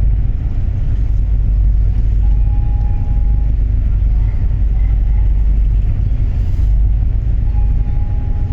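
Passenger ferry Royal Chidori leaving port: a loud, steady low rumble of engines and water, with a faint thin tone sounding twice for about a second each.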